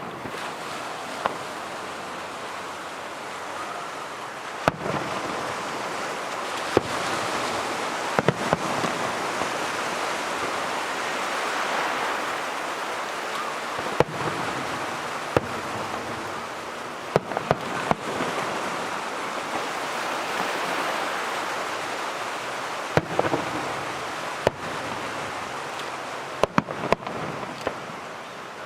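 Aerial fireworks bursting: sharp bangs at irregular intervals, sometimes in quick clusters, over a dense hiss that swells toward the middle and fades again.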